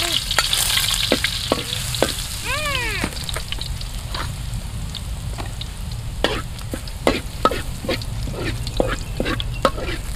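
Food sizzling in hot cooking oil as it is stir-fried, with the spatula clicking and scraping against the pan again and again. The sizzle is strongest in the first couple of seconds.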